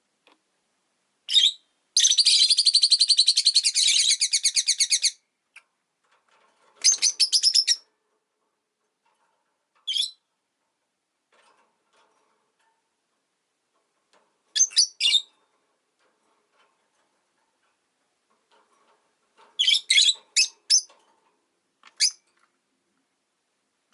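Rosy-faced lovebirds chirping with sharp, high calls. About two seconds in comes a rapid run of repeated chirps lasting about three seconds, followed by scattered short clusters of calls with silent gaps between them.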